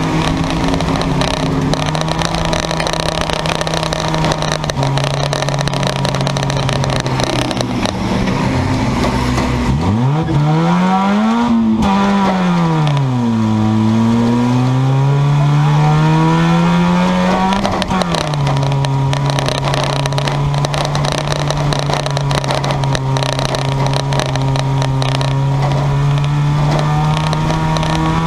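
Junk yard race car engines running steadily around the track. About ten seconds in, one engine climbs sharply in pitch, falls, climbs again and drops back into the steady drone, as a car revs or passes close by.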